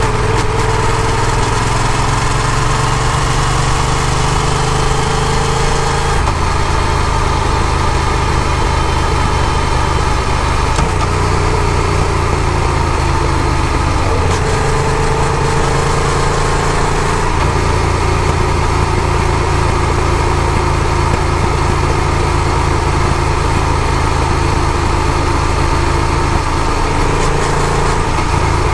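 Yamaha FZ-07's parallel-twin engine running steadily under way, its pitch shifting several times as the road speed changes, over a continuous rushing noise.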